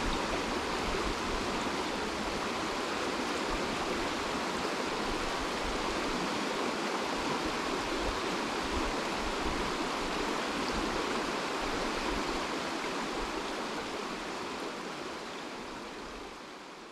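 Steady rush of running water, like a stream, fading out over the last few seconds.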